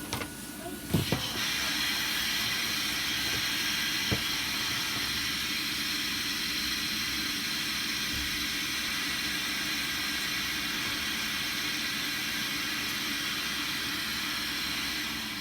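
Hot air gun blowing with a steady hiss, starting with a click about a second in and running on evenly; a short tick sounds about four seconds in.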